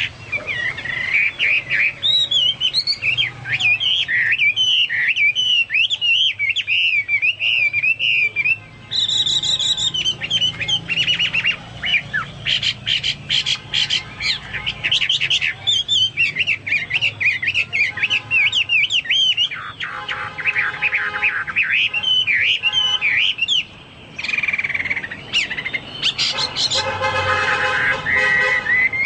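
Chinese hwamei in full song, pouring out a long, varied run of loud whistled phrases, warbles and rapid chattering notes, in a style likened to cucak Papua and cucak mas song.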